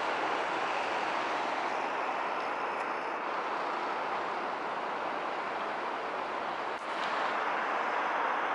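JR Osaka Loop Line electric train running past on the elevated track, a steady rail rumble mixed with city traffic noise. The sound dips briefly about seven seconds in, then the steady noise goes on.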